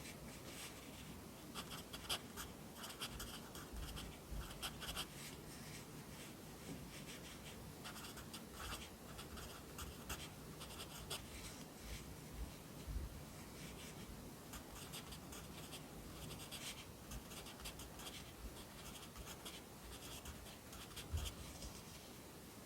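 Pencil writing on paper: clusters of short scratching strokes as characters are formed, with brief pauses between them.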